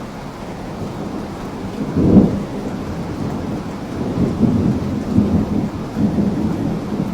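Thunder rumbling over steady rain. A low rumble swells sharply about two seconds in, then rolls on in several waves through the second half.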